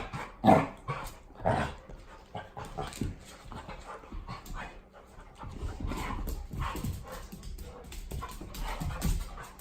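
A dog vocalising: two loud short sounds in the first two seconds, then softer panting and whining.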